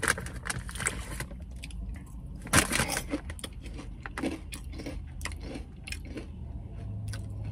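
Snack bag rustling as a hand digs in for popcorn, with a brief louder rustle or crunch about two and a half seconds in. Then a person chews caramel-coated popcorn, making scattered small crunches.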